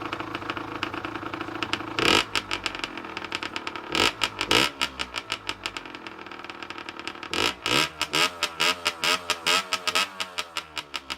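Rieju MRT's 50cc two-stroke engine with a completely emptied exhaust silencer, idling and then revved in several short throttle blips, about two seconds in, twice around four seconds and again past seven seconds, the revs falling back to idle after each. The engine is still restricted.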